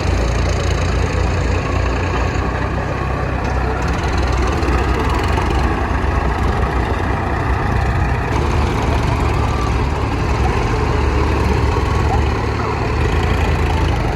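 A diesel tractor engine running steadily.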